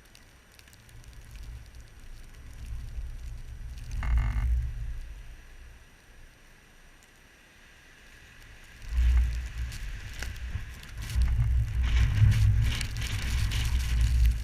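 Blizzard wind gusting in irregular surges, buffeting the microphone with a low rumble, the later gusts carrying a hiss of blowing snow. A brief higher-pitched sound cuts in about four seconds in.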